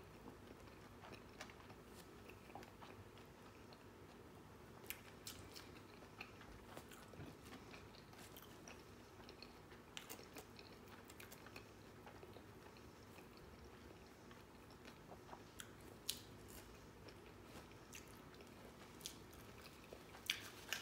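Quiet chewing: a person's mouth working through a mouthful of food, with scattered faint clicks and smacks.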